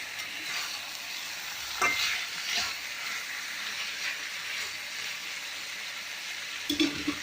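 Marinated chicken pieces sizzling and frying in hot oil in a kadai. There are two sharp knocks about two seconds in, as the pan is stirred.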